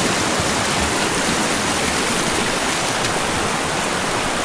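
Fast, flood-swollen mountain creek rushing steadily, a loud even wash of moving water.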